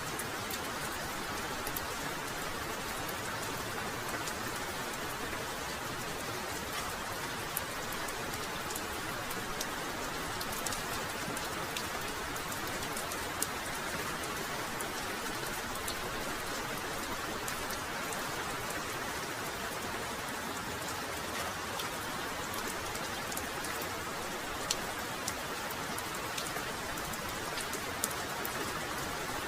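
Heavy rain falling steadily: a dense, even hiss with scattered sharp taps of single drops striking close by.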